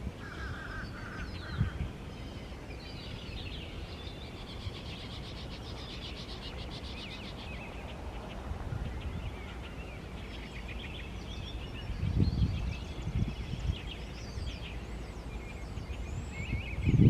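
Several songbirds singing and chirping, with a fast trill a few seconds in, over a low outdoor rumble; short low-pitched buffets, like wind on the microphone, about twelve seconds in and at the end.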